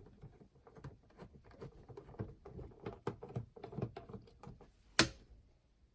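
Small clicks, taps and scrapes of hands and a screwdriver working on a plastic clock radio/cassette player while it is being taken apart, with one sharp, loud click about five seconds in.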